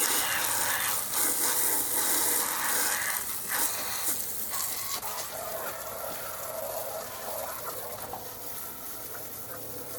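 Water spraying from a hose nozzle onto hard ground, a steady hiss that is louder for about the first three and a half seconds, then softer.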